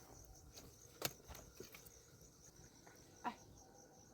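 Faint, steady chirping of crickets, broken by a sharp click about a second in and another short click a little past three seconds.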